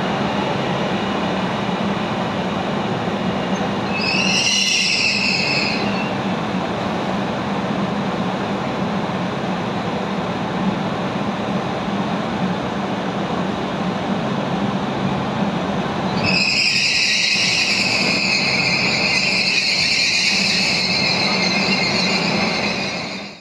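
Trenitalia 'Rock' double-deck electric multiple unit rolling slowly past along a platform, its wheels giving a steady rumble. High-pitched wheel squeal comes in briefly about four seconds in and again from about sixteen seconds on.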